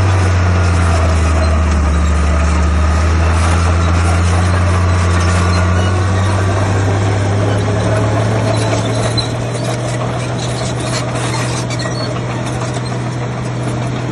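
Heavy diesel engine of construction machinery running, a loud low hum. About halfway through, its lowest note fades and a slightly higher steady hum carries on.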